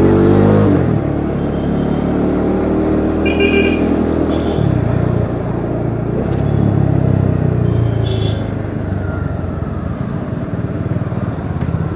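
Bajaj Dominar 400's single-cylinder engine under way, revs climbing and then dropping at gear changes, once about a second in and again near five and eight seconds. Brief high beeps come about three and a half seconds in and again near eight seconds.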